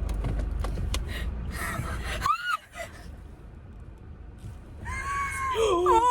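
High-pitched squeals from a person: a short rising-and-falling squeal a little over two seconds in and a longer one near the end, over a low rumble in the first two seconds.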